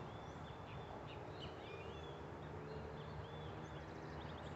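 Faint outdoor ambience with small birds chirping repeatedly in short rising and falling calls, over a low steady hum.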